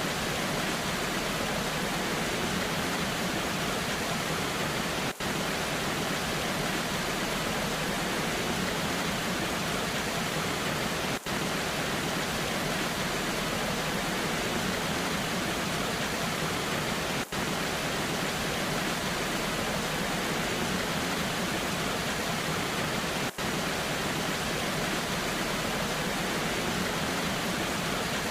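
Waterfall in the rain: a steady, even rush of falling water with no changes in pitch or rhythm. A momentary dropout recurs about every six seconds.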